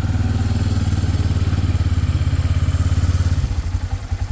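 Engine of a small vehicle running close by, with an even low pulsing beat that drops to a slower, more separate beat about three and a half seconds in.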